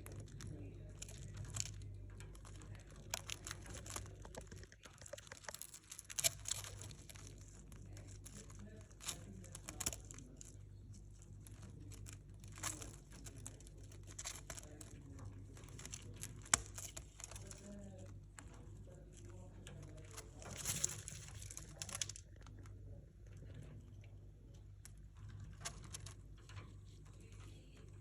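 Cockatiel pecking and nibbling at a piece of bread: an irregular run of small crunchy clicks and crackles, over a low steady hum.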